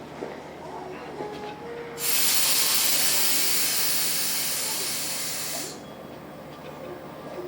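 A burst of pressurized gas hissing out. It starts sharply about two seconds in, runs for about three and a half seconds, fades slightly, then cuts off. In the quieter stretches around it there are faint clinks of tools on metal.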